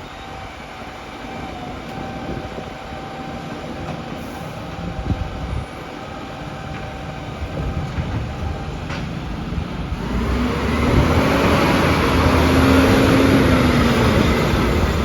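Garbage truck engine running with a steady low rumble, growing louder about ten seconds in, with a tone that rises and then falls back.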